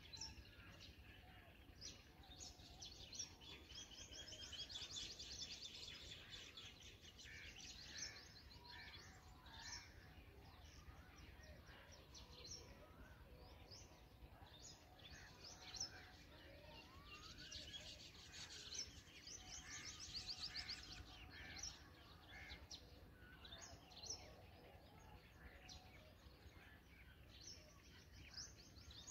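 Faint, repeated high bird chirps and calls, with two stretches of fast trilling: one a few seconds in and one about two-thirds of the way through.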